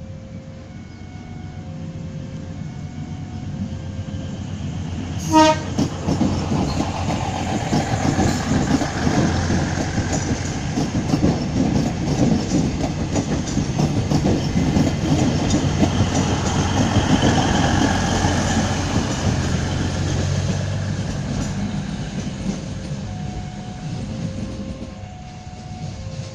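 A diesel multiple unit, the ex-KRD Way Umpu set, passes close by. It gives one short horn blast about five seconds in. Then its engine drone and the clack of its wheels over the rail joints build up and die away.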